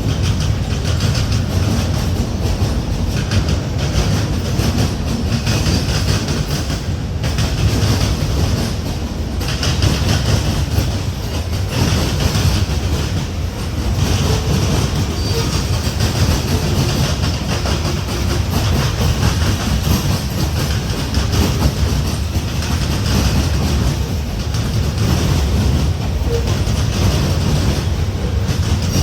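A freight train's cars rolling steadily past, wheels clattering on the rails, with a few brief dips in the noise.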